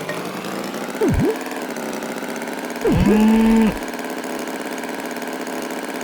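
An engine idling steadily. Two short swooping tones sound over it: one about a second in, and one about three seconds in that holds its pitch for most of a second.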